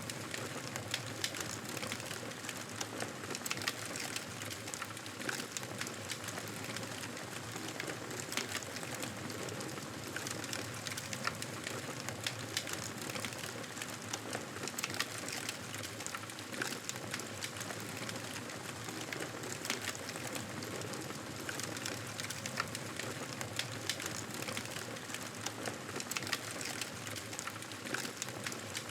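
Campfire burning: a steady hiss with frequent small sharp crackles and pops of burning wood at irregular intervals.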